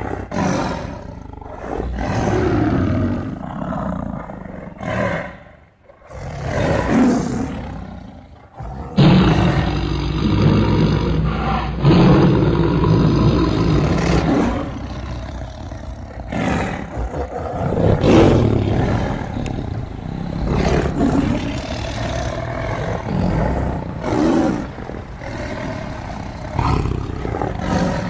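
Tigers roaring, a string of loud calls one after another a second or two apart, with a sudden change in recording about nine seconds in.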